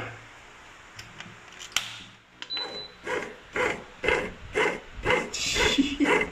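Bread maker beeping once, then its kneading motor and belt drive running in short pulses, about two a second.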